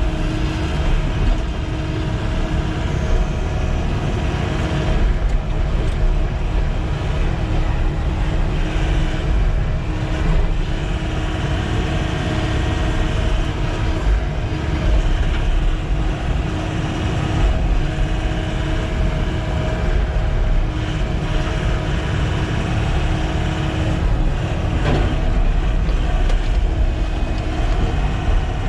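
Sany SY95 excavator's diesel engine running steadily, a dense low rumble with a steady hum over it.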